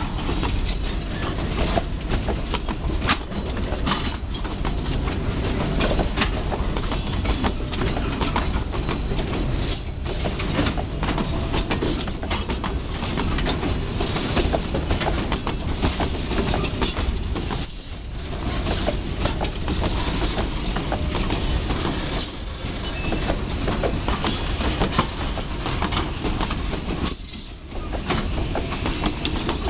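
Freight train of covered boxcars rolling past at low speed: a steady rumble of wheels on rail, clacking over rail joints, and a few short, high-pitched wheel squeals.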